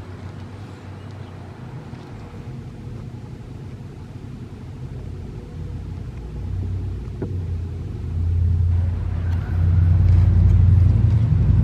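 A motor vehicle's engine rumbling, growing louder over the last several seconds as it comes closer.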